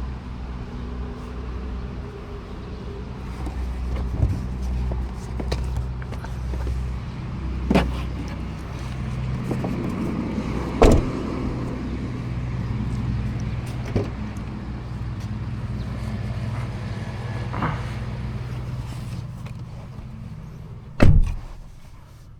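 2013 Toyota Prius: a steady low vehicle hum, with sharp clicks and knocks every few seconds and a loud thump about a second before the end, after which the hum falls away.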